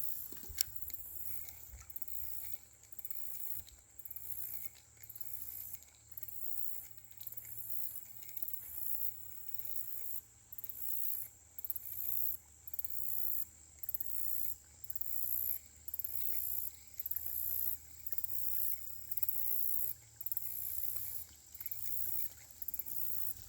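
Insects buzzing, a high-pitched hiss pulsing on and off about once a second.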